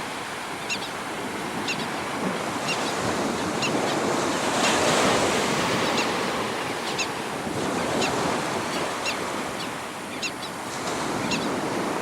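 Surf washing onto the beach, a steady rush that swells about halfway through, with wind buffeting the microphone. Short high chirps come about once a second over it.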